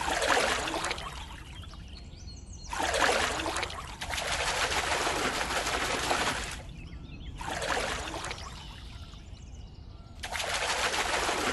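Goldfish splashing and thrashing in a net in shallow water, in four noisy bursts; the longest lasts several seconds.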